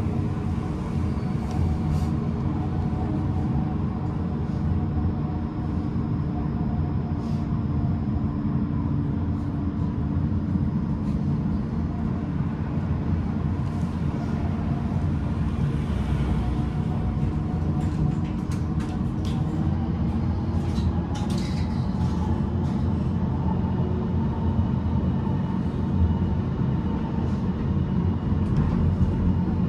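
Tram running along the rails: a steady low rumble from wheels and track, with an electric whine whose pitch rises about two-thirds of the way through as the tram picks up speed, and a scattering of short clicks around then.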